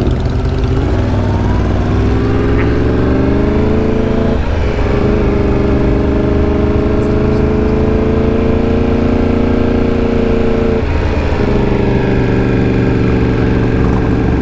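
Motorcycle engine under the rider, climbing in pitch as the bike speeds up at low speed, with two short breaks for gear changes about four and a half and eleven seconds in.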